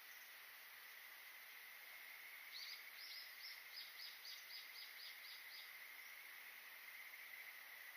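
Faint bird call: a run of about a dozen quick high chirps, roughly four a second, starting between two and three seconds in and ending just before six seconds, over a steady high-pitched hum.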